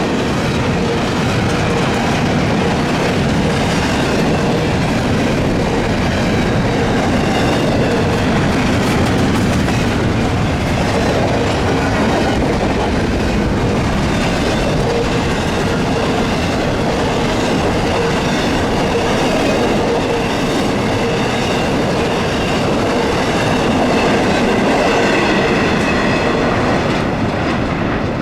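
Long intermodal freight train rolling steadily past: continuous rumble and clatter of many railcar wheels over the rails, with faint thin squealing tones from the wheels.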